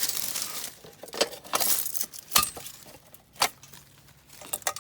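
Sharp metallic clinks and knocks, a few separate strikes spread out with a cluster near the end, from hands working on the sheet-metal casing of an outdoor air-conditioner condensing unit. A brief rustle comes at the start.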